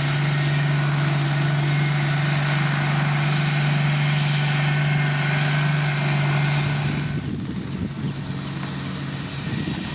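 Diesel engine of heavy road-building machinery running steadily with a strong, even hum. About seven seconds in the hum drops away, leaving a rougher, quieter rumble.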